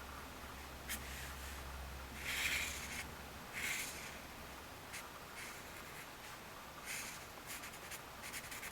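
Pen strokes scratching on paper while shading in a drawing: faint, short scratchy strokes, the loudest a little over two seconds in and again near four seconds, with a few light ticks between.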